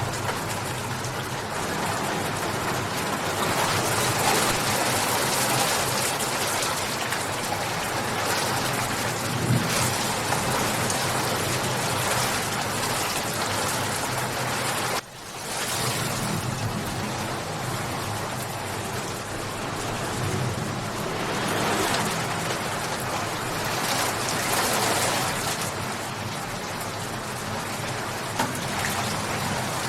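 Steady heavy rain falling and pattering on surfaces, swelling and easing slowly. It drops out for an instant about halfway through, then comes straight back.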